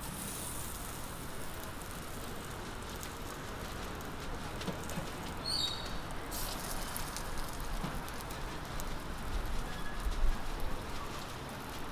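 Millet pancakes frying in oil on a flat street-stall griddle: a steady sizzling hiss full of fine crackles. A few low bumps come near the end.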